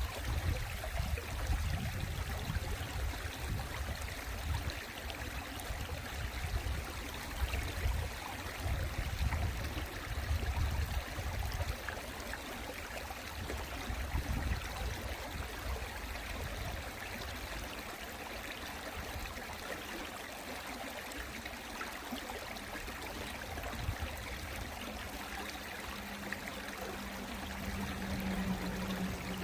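Mountain stream water running steadily over rocks, with uneven low rumbling through the first half. A steady low hum comes in near the end.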